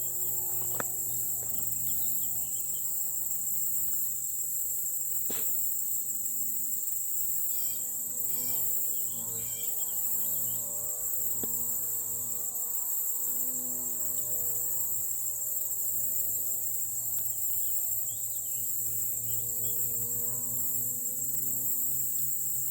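Steady high-pitched chorus of crickets and other insects, with a low hum that slowly wavers in pitch under it. A few brief chirps come in near the middle and again later, and there is a single click about five seconds in.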